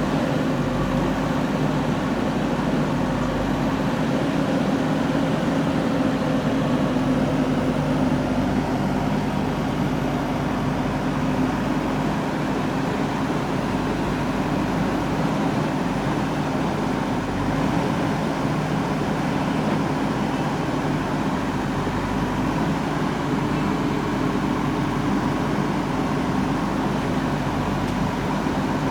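The diesel engine of a JCB 3DX backhoe loader running steadily at working speed, an even drone with no sharp knocks.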